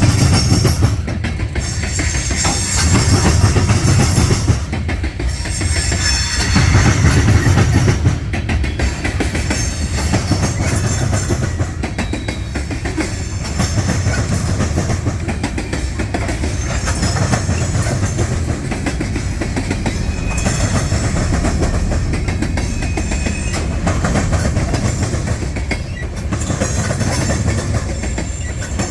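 A CSX diesel freight train moves cars at slow-to-moderate speed. There is a steady low rumble, with the clickety-clack of railcar wheels over the rail joints coming and going.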